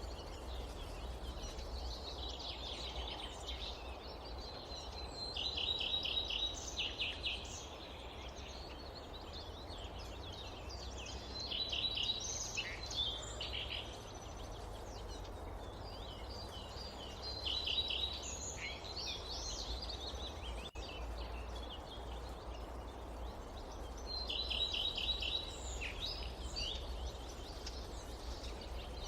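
Forest songbird singing a short repeated phrase with a quick trill, coming back about every five to six seconds. Under it runs a steady background hiss with a low rumble.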